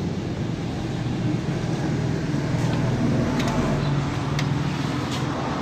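Steady low vehicle rumble with a few short, sharp clicks over it in the second half.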